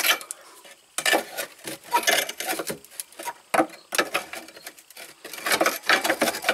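Irregular metallic clinks, clicks and knocks of hand tools working on fuel lines under a minivan, coming in short clusters.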